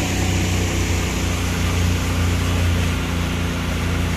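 A boat's motor running steadily at an even low hum, with a rushing hiss of water and wind over it.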